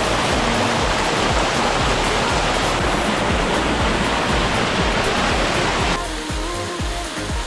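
Steady rush of a small waterfall over background music with a steady beat. The water noise drops away about six seconds in, leaving the music.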